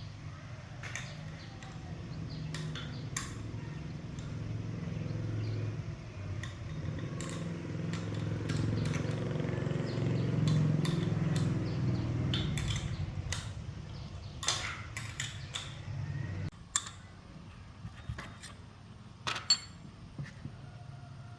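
A motor runs with a low, steady hum that swells in the middle and cuts off suddenly about three-quarters of the way through. Light metallic clinks and knocks of tools and parts being handled come throughout.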